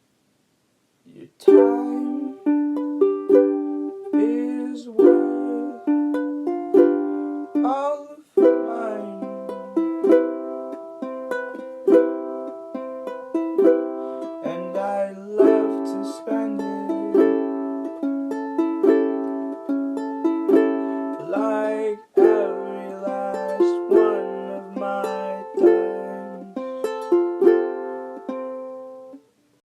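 Solo ukulele strumming chords in a steady rhythm, without singing. It starts about a second in after a brief gap and stops shortly before the end.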